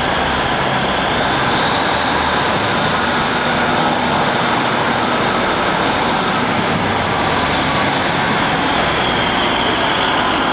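Train running along the line: a steady, even running noise with a faint high whine that rises and later falls.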